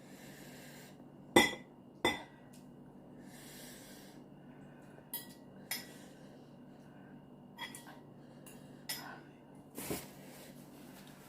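Eating utensils clinking against a noodle bowl, several sharp clinks with the loudest two about a second and two seconds in, between soft breaths.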